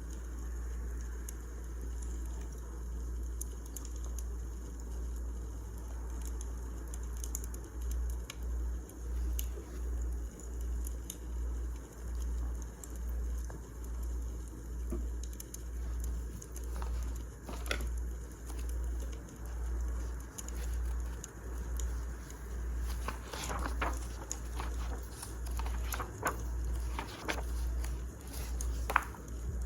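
Wood fire crackling in a fireplace, with scattered sharp pops that come thicker in the second half, over a low rumble that swells about once a second.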